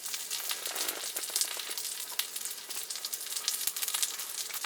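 Meat sizzling and crackling on a hot grill pan, a steady dense spatter of small pops.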